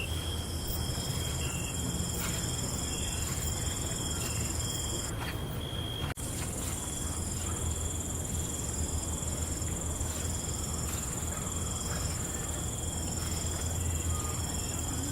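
Night chorus of crickets trilling steadily at two high pitches, over a low steady rumble. The higher trill drops out briefly before a short click about six seconds in, then returns.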